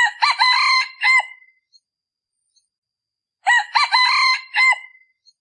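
Male decoy rooster crowing twice, each crow short and clipped and about a second and a half long: the call used to lure wild junglefowl cocks.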